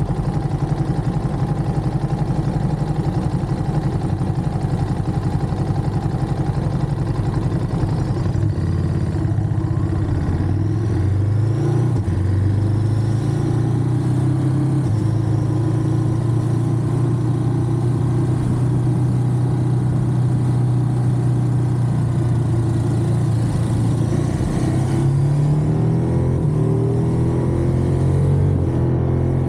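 Ducati Monster's V-twin engine running on the move, its pitch shifting up and down about ten seconds in, then holding steady before rising as the bike accelerates near the end.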